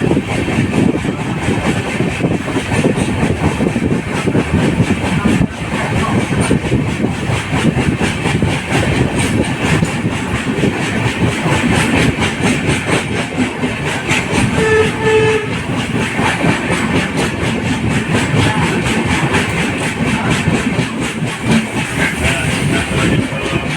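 Running train heard from inside an LHB passenger coach: a steady, loud rumble and rattle of the wheels on the rails with rapid clicking. About two-thirds of the way through, a short steady tone sounds over it.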